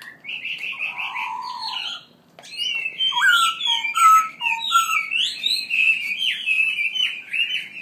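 A songbird singing a loud, varied song of quick whistled notes and slurred phrases. There is a brief pause about two seconds in, then a denser run of phrases to the end.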